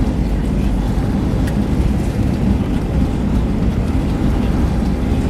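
Steady low rumble of cabin noise inside an Airbus A320-232, its IAE V2500 engines and airframe running on the ground around landing, with a few faint clicks.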